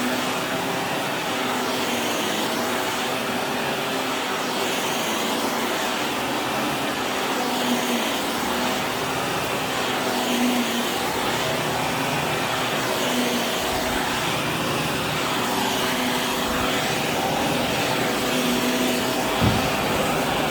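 Vacuum cleaner running steadily, its motor hum swelling and easing about every two and a half seconds as it works. A single low knock near the end.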